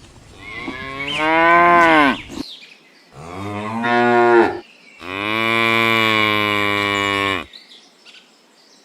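Cattle mooing: three moos in a row, the last one long and steady at about two and a half seconds.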